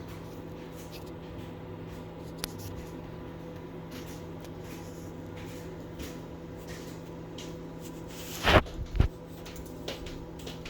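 Samsung ME19R7041FS over-the-range microwave running its pizza cycle with a steady low hum. Two short, loud bumps come close together near the end.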